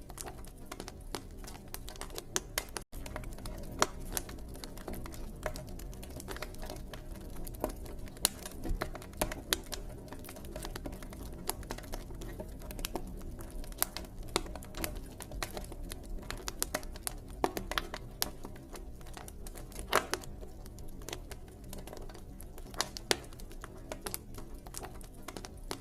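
Wood campfire crackling, with irregular sharp pops and snaps over a steady low rumble of burning. The sound cuts out completely for an instant about three seconds in.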